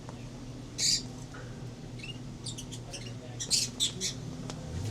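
Small pet birds chirping and squawking in short bursts, one call about a second in and quick clusters of calls later on, over a steady low hum.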